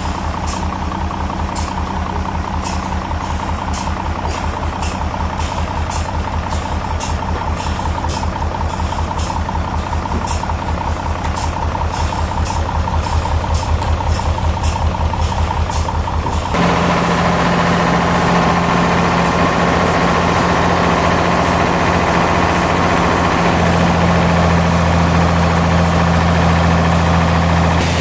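A heavy engine running with a fast, even chug and scattered light ticks. About two-thirds of the way through, it changes abruptly to a louder, steadier drone.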